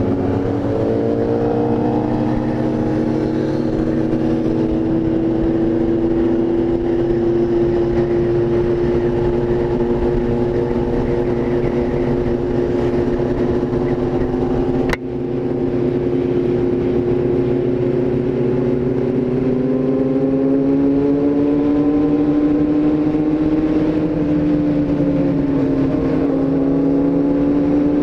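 Car engine running steadily under way, its pitch holding and then drifting slowly up and down with speed. A single sharp click comes about halfway through.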